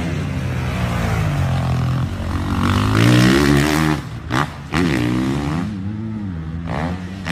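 Motocross dirt bike engines revving, their pitch rising and falling as they accelerate and back off, with a short dip in the sound a little after four seconds.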